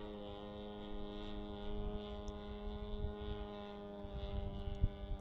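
Gas engine of an RC Piper Cub model (G26 with an 18x8 propeller) running at a steady throttle in flight, one even engine tone with no change in pitch, over a low rumble of wind on the microphone.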